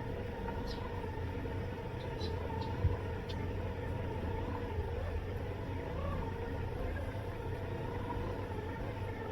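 Robot lawn mower running, heard from a camera taped to its body: a steady electric motor hum. A single knock comes about three seconds in, and a few brief high chirps sound in the first few seconds.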